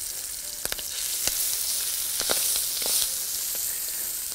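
Marinated chicken livers sizzling in hot oil as they go into a non-stick frying pan, searing on contact in the already hot pan. The hiss grows louder about a second in as more liver hits the oil, with a few clicks and knocks from the spatula and bowl.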